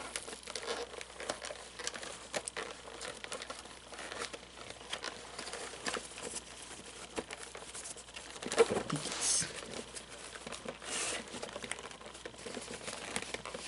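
Fabric pants and glued foam padding being pulled and peeled apart by hand: irregular crinkling and scratching with small clicks, and a louder burst about eight and a half seconds in. The glue is just beginning to let go.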